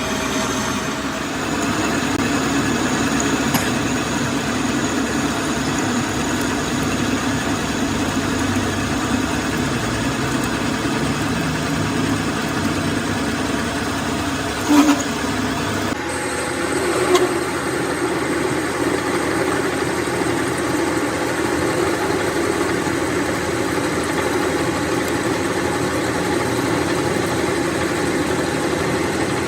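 Metal lathe running steadily. A little before halfway there is a short knock, then the sound changes abruptly, and a smaller knock follows soon after.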